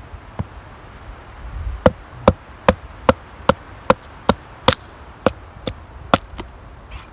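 British Army survival knife being driven through a knotty log with wooden strikes, splitting it: about a dozen sharp, evenly paced knocks, roughly two and a half a second, starting about two seconds in.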